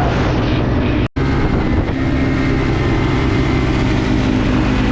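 Dirt bike engine running steadily while riding, with wind noise on the microphone; the sound cuts out for an instant about a second in.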